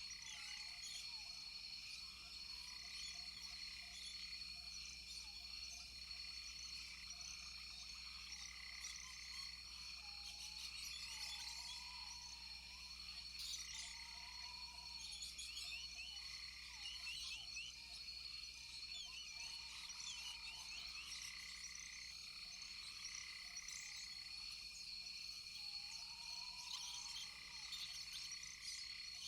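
Rainforest chorus of frogs and insects: a steady high insect tone, frog calls repeating every couple of seconds, and many short chirps overlapping.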